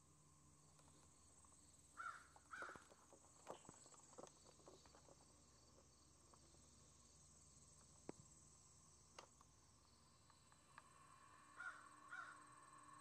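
Faint bird calls outdoors: a pair of short calls about two seconds in and another pair near the end, with a few faint clicks in between over a quiet, steady background.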